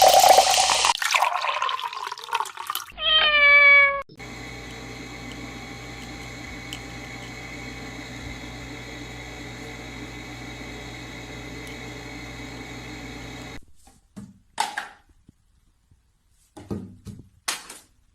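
A loud rush of watery noise, then a cat meows once, a falling call about three seconds in; a steady hum follows, and a few short sounds come near the end.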